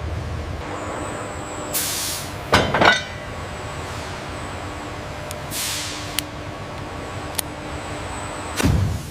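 Factory machinery running with a steady hum, broken by short air hisses, a quick cluster of metal clanks about two and a half seconds in, and a louder burst near the end.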